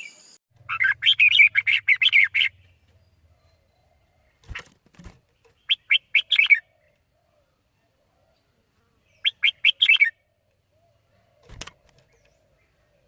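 Red-whiskered bulbul calling in bursts of rapid chirps: a longer phrase of about two seconds at the start, then two shorter phrases. There are a few sharp clicks in between.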